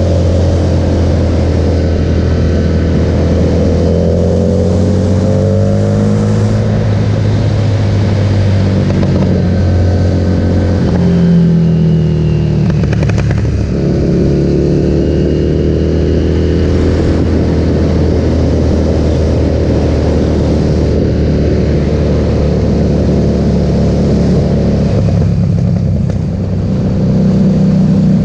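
Harley-Davidson Street Rod 750's V-twin engine running loud through a Vance & Hines aftermarket exhaust, its pitch rising and falling several times as it is revved or ridden.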